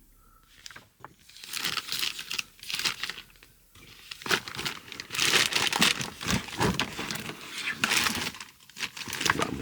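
Plastic bags and sleeves crinkling as bagged comics and collectables are handled and flipped through, in irregular bursts that start about a second in.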